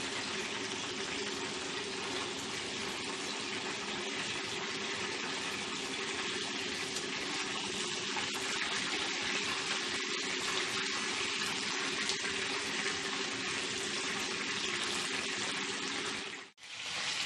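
Chicken pieces sizzling steadily in hot oil in a frying pan. The sound cuts out for a moment near the end.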